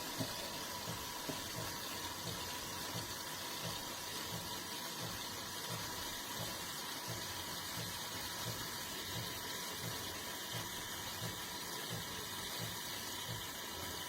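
De'Longhi Rivelia automatic espresso machine running partway through a latte cycle: a steady hiss with a soft low pulse repeating about twice a second.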